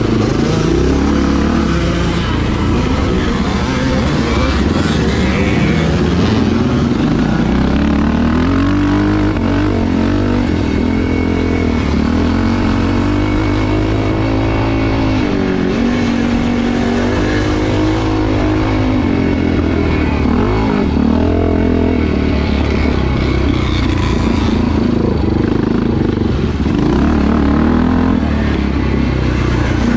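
Motocross motorcycle engines running hard, their pitch rising and falling again and again as the throttle opens and closes.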